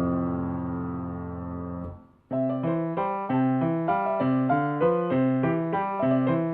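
Solo piano playing a sonatina. A held chord fades away, there is a brief pause about two seconds in, then a new passage of evenly paced notes begins.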